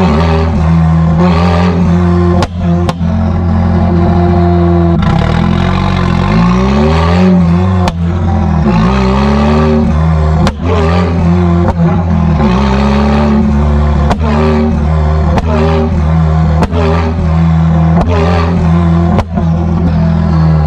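Straight-piped Nissan S15 200SX turbocharged SR20 four-cylinder being driven, its revs rising and falling several times as it pulls and lifts off. Short sharp cracks come through at intervals.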